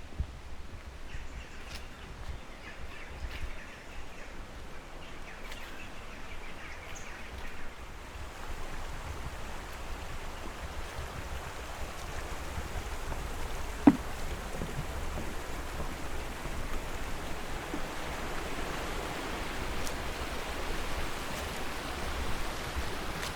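Stream water rushing steadily, growing louder over the second half, with a few bird chirps in the first seconds and one sharp click about fourteen seconds in.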